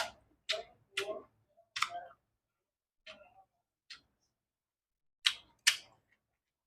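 A person eating close to the microphone: a run of short, sharp crunching and smacking mouth sounds, about seven in all, unevenly spaced with a gap in the middle.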